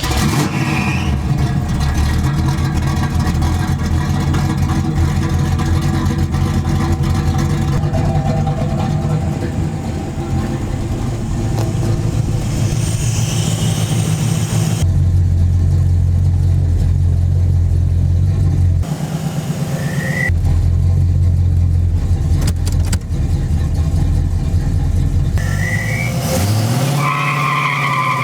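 1972 Chevy Nova's small-block 350 V8 held at high revs under full throttle against the brake in an automatic-transmission brake-stand burnout, running loud and steady with a brief dip partway through. Near the end the revs fall away and short high squeals follow.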